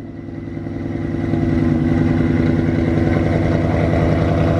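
Shelby GT500's supercharged 5.2-litre V8, breathing through freshly fitted American Racing headers, idling steadily just after start-up. It grows louder over the first second or so and then holds an even, deep note.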